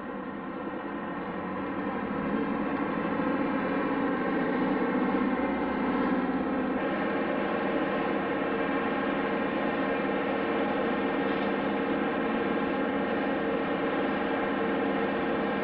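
Aircraft engine running with a steady, pitched drone that grows louder over the first two or three seconds and then holds level.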